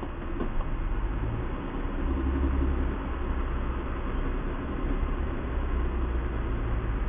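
Low, steady rumble of a car engine idling, heard from inside the stopped car's cabin.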